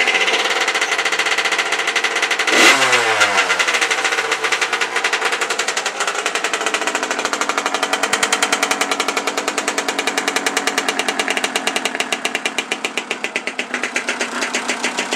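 1989 Yamaha YZ80 two-stroke single-cylinder engine cold-started on choke, running just after being kicked over. About three seconds in it revs up sharply and falls back, then it runs on with a steady, fast, even pulsing.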